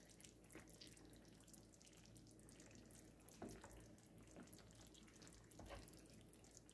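Near silence, with a few faint clicks of a serving utensil against a pot or plate.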